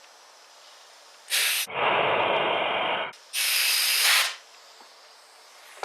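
Compressed air blasting through a Cummins diesel injector that is filled with lantern fuel, forcing the fuel out of the nozzle holes to check the spray pattern. Three hissing bursts: a short one, a longer and duller one, then a third.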